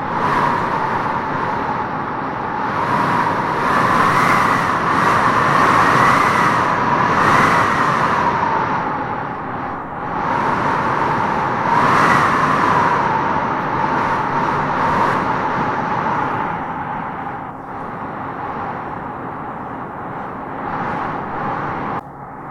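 Wind howling as it gusts through trees: a steady rush with a whistling howl that rises and falls in pitch, swelling and easing every few seconds.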